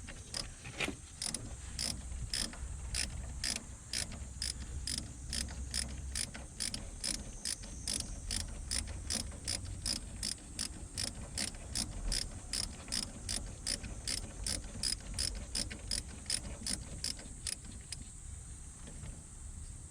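Ratchet wrench clicking in a steady rhythm, about two to three clicks a second, as a bolt is turned during engine-bay work; the clicking stops near the end.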